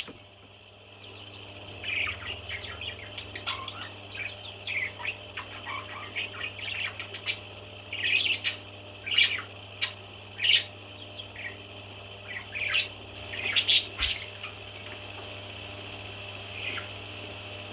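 Baby parrots chirping and squawking in many short, rapid calls, starting about two seconds in and thinning out near the end, over a steady low hum.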